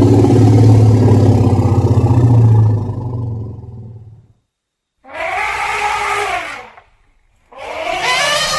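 Elephant sounds: a deep, pulsing rumble that fades out, then after a short gap two calls of about two seconds each, each rising and then falling in pitch.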